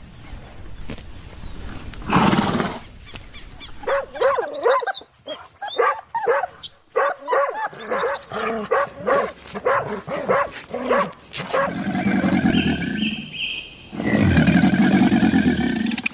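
A series of different animal calls one after another: a short loud call about two seconds in, then a long run of repeated pitched calls at about two per second, and two long, deep, loud calls near the end.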